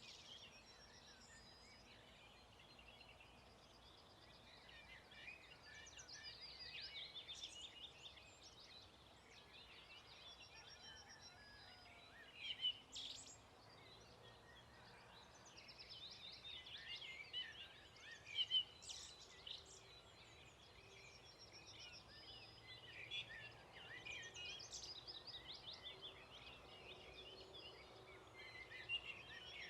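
Faint dawn chorus of several songbirds singing in overlapping, chirping phrases, with a few louder notes about 13 and 18 seconds in.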